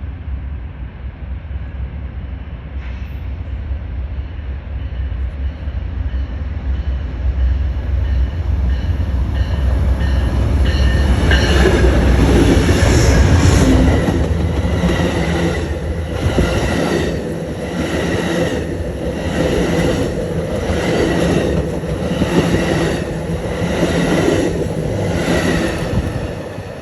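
Amtrak passenger train approaching and passing at speed: a low rumble builds and peaks about halfway, then the cars go by with a steady beat of wheels over rail joints, about once a second.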